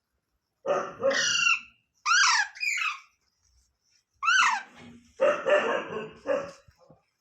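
Pet parrot giving a series of loud, harsh calls: a pair of calls about a second in, two quick downward-sweeping squawks at about two seconds, another sweeping call past four seconds, then a longer rasping call.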